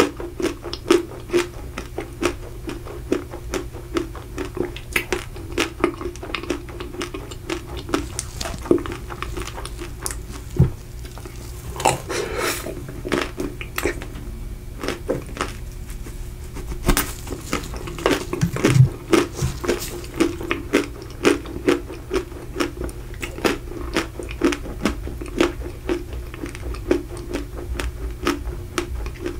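Close-miked biting and chewing of a Magnum ice cream bar, its chocolate shell cracking and crunching in quick irregular clicks, mixed with wet mouth sounds. The crunching eases briefly about midway, then picks up again.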